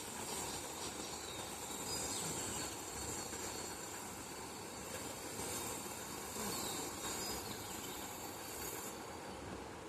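Steady outdoor background noise with a high hiss and a few faint, short bird chirps; the high hiss drops away near the end.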